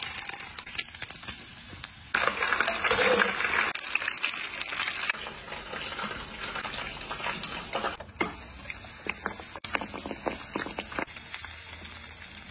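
Lamb tail fat sizzling on a griddle pan and frying in hot oil: a hissing sizzle with scattered crackles and pops, loudest for about three seconds starting two seconds in.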